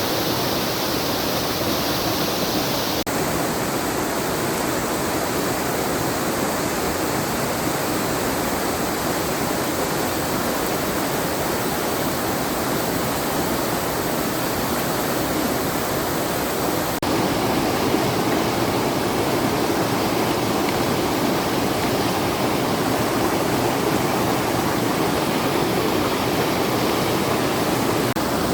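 Water rushing over tiered rock cascades of a waterfall: a loud, steady rush, shifting abruptly in tone a few seconds in and again about halfway through.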